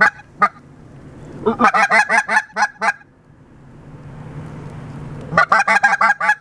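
Canada geese honking in rapid series, in two bursts of about eight to ten honks each, the first about a second and a half in and the second near the end.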